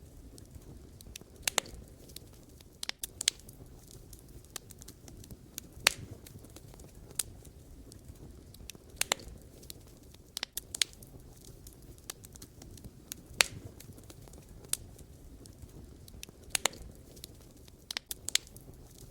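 Wood fire burning: a soft low rumble of flames with irregular sharp pops and crackles from the burning logs.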